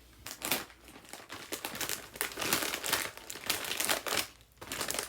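Plastic snack packaging crinkling and crackling as it is handled, in a dense irregular run with a brief pause near the end.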